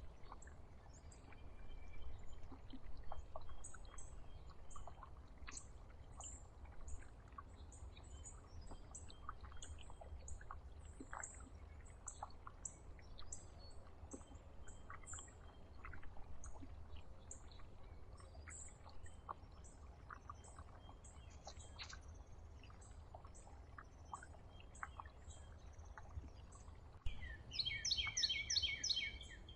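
Small songbirds at a feeder giving thin, high chirps over and over, with scattered faint clicks. Near the end comes a louder run of rapid, harsh call notes. A steady low rumble sits underneath throughout.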